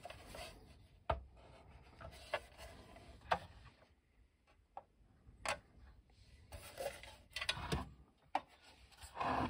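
Hard plastic parts of a vintage G.I. Joe Toss 'N Cross toy tank and its bridge section being handled, with several sharp clicks spread through and a stretch of rubbing and scraping near the end.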